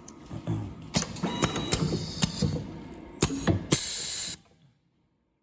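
Machine clatter: a run of sharp clicks and knocks, then, about four seconds in, a short, loud burst of hissing air, after which the sound cuts off.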